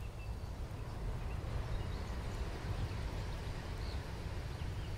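Train passing: a steady low rumble and rushing noise that swells about a second in and holds, with a few faint bird chirps above it.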